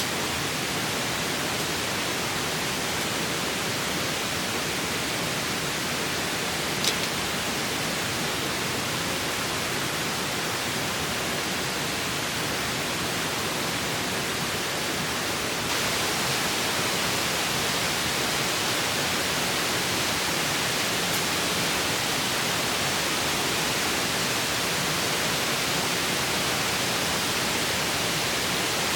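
Steady rushing of a flowing river, an even wash of noise with a single sharp click about seven seconds in. It gets slightly louder and brighter about halfway through.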